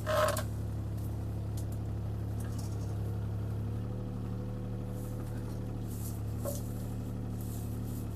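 Mini excavator's diesel engine running steadily, heard from the operator's seat, with a short clatter right at the start and a couple of faint clicks later on.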